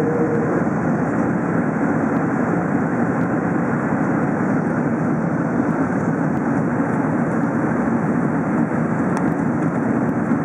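Steady, even droning cabin noise inside an Airbus A380 airliner, heard from a passenger seat.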